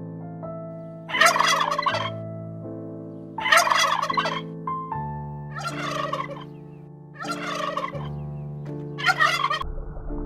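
A bird calling in five short bursts, roughly two seconds apart, over background music with long held notes.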